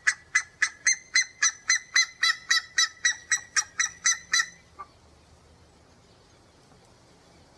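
A bird giving a rapid series of loud, evenly spaced call notes, about four a second, which stops about four and a half seconds in.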